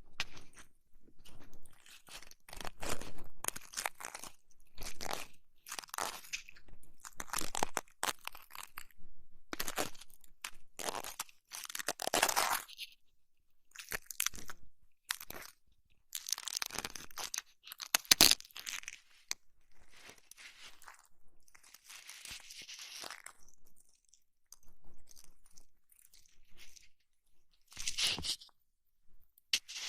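Close-miked ASMR ear massage and ear cleaning sounds: irregular bursts of rubbing and scratching noise, with a few sharp clicks.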